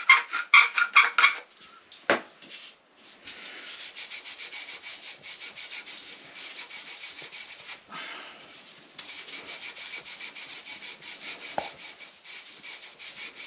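Copper pipe being scrubbed by hand with an abrasive to clean it, in rapid, even back-and-forth strokes. The strokes come in two long runs with a short pause about eight seconds in. Before that come brighter scraping strokes at the start and a single knock about two seconds in.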